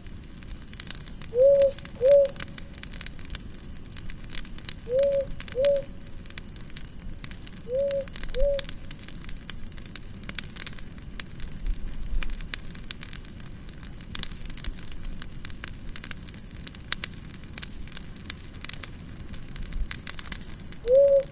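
Campfire crackling and popping steadily, with a bird's call of two short notes heard four times, three times in the first half and once near the end; the calls are the loudest sounds.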